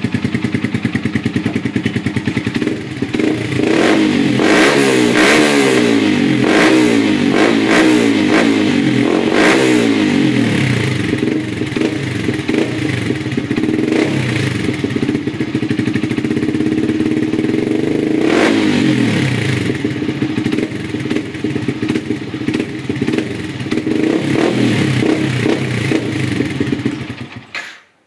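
Yamaha R15's single-cylinder four-stroke engine through a modified aftermarket exhaust, idling and then being revved up and down again and again, with several sharp cracks among the revs; it runs steadier for a while and is switched off near the end.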